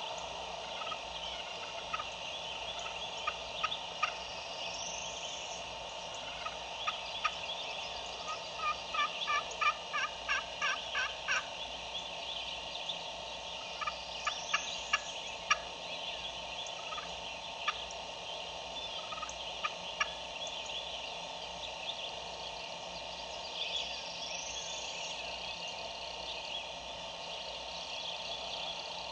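Wild turkey gobbling faintly at a distance. Most of it is one run of short, evenly spaced notes that lasts about three seconds, followed by a few scattered notes. Small birds chirp now and then over a steady woodland background.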